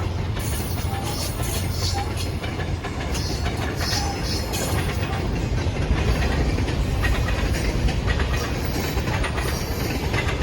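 Metrolink commuter train running on the rails, a steady low rumble with track noise.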